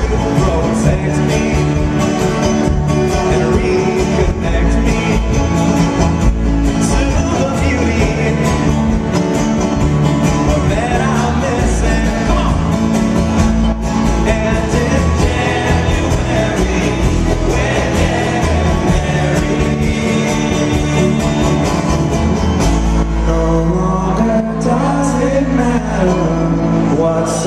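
Live acoustic folk band playing a song: plucked and strummed acoustic strings with male singing, recorded from the crowd on a small camcorder microphone.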